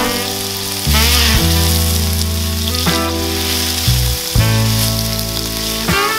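Diced potatoes and red onion sizzling as they fry golden in fat in a pan, stirred with a spatula, under background music with a bass line that changes note every second or so.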